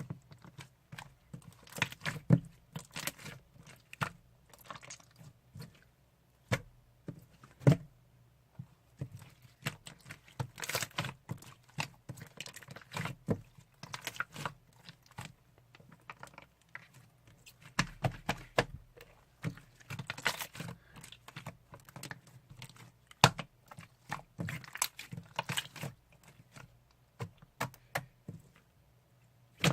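Slime being squeezed, stretched and pressed by hand, giving many irregular sticky clicks and little pops.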